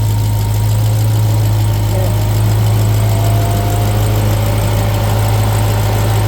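Supercharged 6.2-litre V8 idling steadily with a deep, even low hum.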